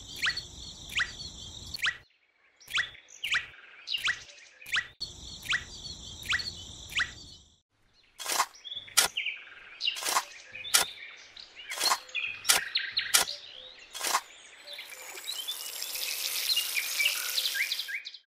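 Short, sharp bird chirps repeating about twice a second, broken off briefly twice. Near the end a hiss grows louder for a few seconds.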